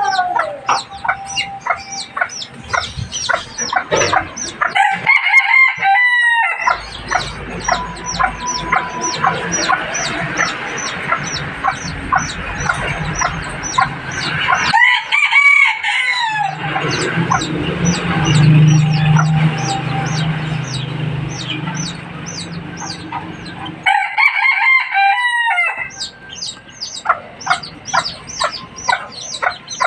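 African lovebirds chattering in a constant run of rapid, high chirps, while a rooster crows three times, about ten seconds apart.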